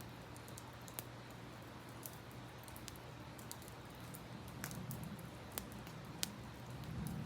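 Campfire crackling, with scattered sharp pops of burning wood, the loudest about six seconds in, over the steady rush of a river.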